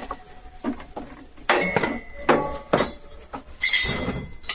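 Pieces of scrap steel being handled and set against each other: several sharp metal clanks, some ringing briefly, and a longer scrape of metal on metal near the end.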